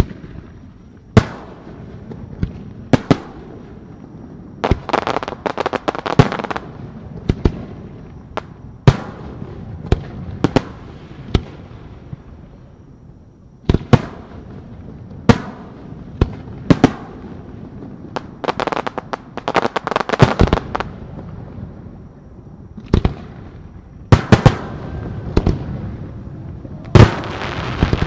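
Aerial fireworks bursting overhead: loud single bangs at irregular intervals, with several stretches of rapid crackling where many small reports come close together.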